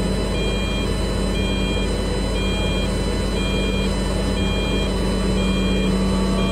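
Truck's reversing alarm beeping about once a second, each beep a short two-tone note, over the truck's engine running steadily.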